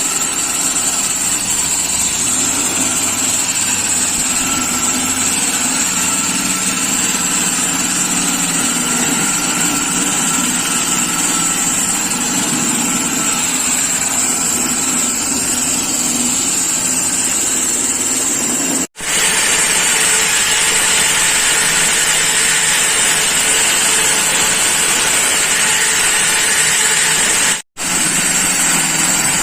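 Walk-behind floor saw cutting a concrete slab with its diamond blade: a steady loud machine noise with a high whine over it, broken twice by very short gaps.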